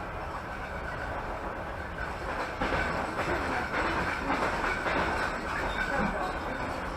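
Passenger train running along the track, heard from inside a carriage: steady wheel and rail noise that grows louder for a few seconds in the middle.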